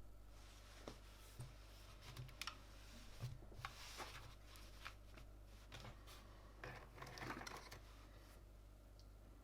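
Faint, scattered small plastic clicks and taps of mechanical keyboard parts being handled and fitted, over a steady low hum. The clicks are sparse at first and cluster more thickly a little past halfway.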